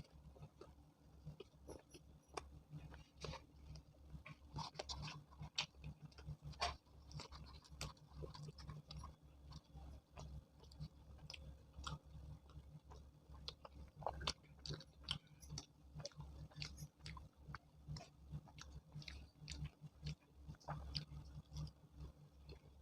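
A person chewing chole bhature with vegetable kurma, close to the microphone, with many small sharp mouth clicks. A low steady hum runs underneath.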